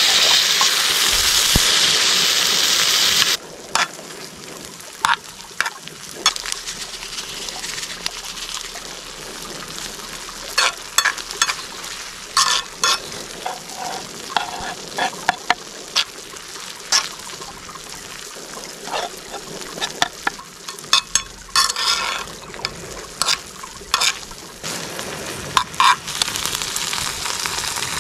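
Food frying in a hot pan. A loud steady hiss cuts off about three seconds in, and quieter sizzling follows with many quick clicks and taps of a utensil stirring against the pan.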